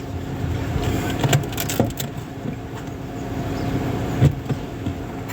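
2008 Honda Civic running, a steady low hum, with a few short knocks and clicks.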